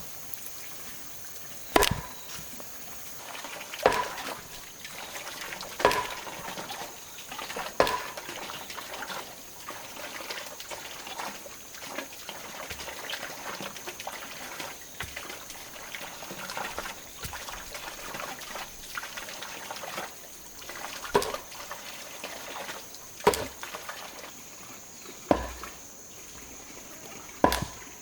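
Repeated sharp chopping strikes, about one every two seconds: four in the first eight seconds, then a stretch of scraping and crackling, then four more near the end. A steady high-pitched drone runs underneath.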